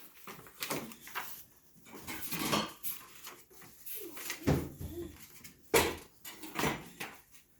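Handling noise as a paper manual is fetched out of the packaging: irregular rustling with a few sharp knocks, the loudest about halfway through and again near the end.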